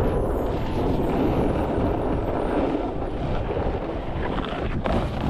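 Wind buffeting the microphone of a helmet-mounted action camera in blizzard winds, a loud continuous rumble.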